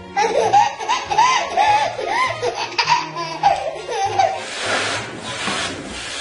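Baby laughing hard in a string of quick, high-pitched belly laughs, then a breathy rushing noise lasting about a second and a half near the end.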